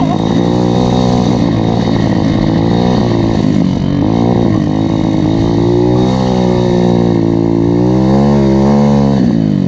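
140cc Chinese pit bike's single-cylinder four-stroke engine under way, its note rising and falling with the throttle as it is ridden, the revs dropping sharply about four seconds in and again at the end.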